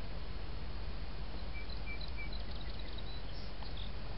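Steady outdoor background hiss with a few faint, high, short chirps from a small bird near the middle.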